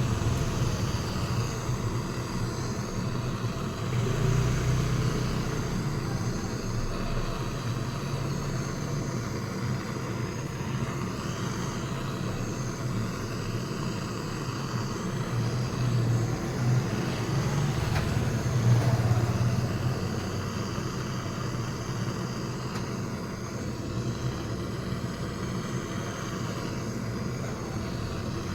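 Gas torch flame running steadily while a bearing is heated, so that it expands to slip onto the engine's crankshaft; the flame noise swells slightly a few times.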